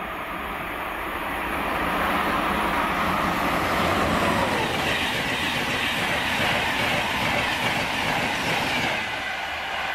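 LNER InterCity 225 express, a Class 91 electric locomotive hauling Mk4 coaches, passing close at speed. A loud rush of wheel and rail noise builds over the first two seconds, holds steady, and eases slightly near the end.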